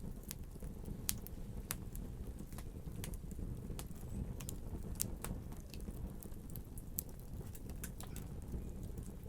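Wood fire burning in a fireplace: a steady low rumble of flames with irregular sharp crackles and pops, the loudest pops about a second in and about five seconds in.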